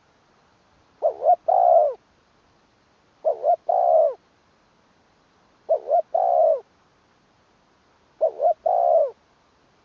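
Spotted dove cooing its song phrase four times, about every two and a half seconds: each phrase a quick double coo followed by a longer, falling coo.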